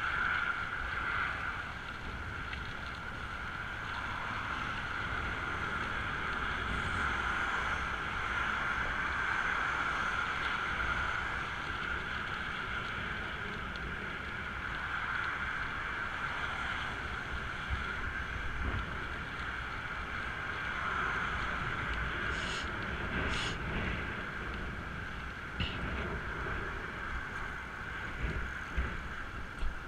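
Wind rushing over the camera microphone while riding a bicycle, with steady road noise underneath and two sharp clicks a little past twenty seconds in.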